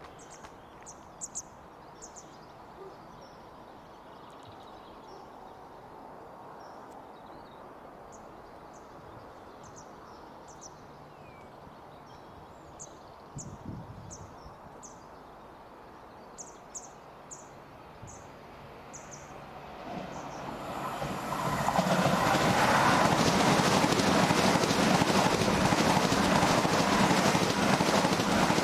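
A Great Western Railway Intercity Express Train approaches and runs through the station at speed without stopping. A distant rumble builds from about twenty seconds in into a loud, steady rush of wheels and air as the carriages pass.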